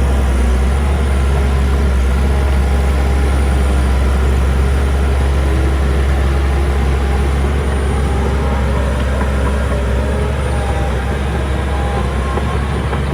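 Heavy diesel engine of earth-moving machinery running steadily and loudly, a deep continuous drone that eases slightly near the end.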